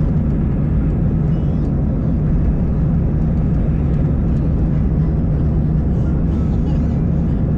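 Steady cabin noise of an Airbus A320 in flight: a loud, even rumble of engines and airflow, heaviest in the low end, with a faint steady hum.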